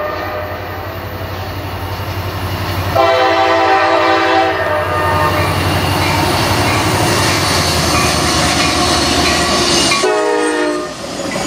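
Norfolk Southern diesel freight locomotive approaching and passing at speed. Its engine rumbles steadily. The horn sounds a long blast about three seconds in and a shorter one about ten seconds in, just as the locomotive goes by. The freight cars' wheels then clatter on the rails.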